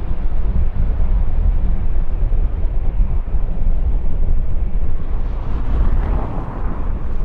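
Wind buffeting the microphone as a deep, gusting rumble over jet aircraft engine noise. About five seconds in a brighter engine noise swells for a couple of seconds and then eases.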